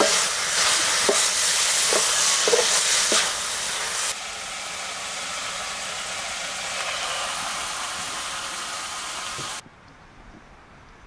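Food sizzling in hot oil in a pan, with short scrapes and knocks of stirring over the first four seconds. The sizzle drops suddenly to a quieter level about four seconds in, then cuts off near the end, leaving quiet background.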